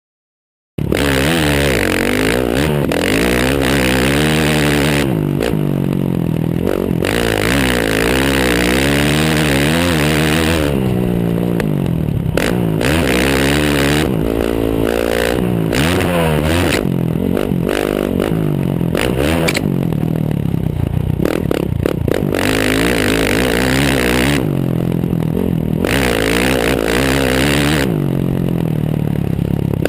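Motocross dirt bike engine revving hard, its pitch climbing and dropping again and again as the throttle is opened and shut through the gears, heard close to the exhaust and rear wheel. It comes in suddenly about a second in, with scraping and clattering noise from the back of the bike over the dirt.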